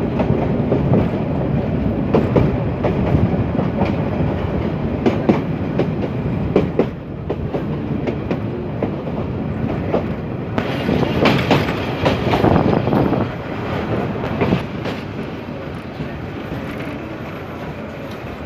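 Passenger train running along the track, heard from a carriage window: a steady rumble of wheels on rail with irregular clacks over the rail joints, getting somewhat quieter over the last few seconds.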